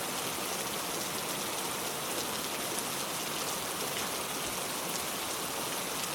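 Steady heavy rain falling and pattering on surfaces, a constant hiss with many fine drop ticks.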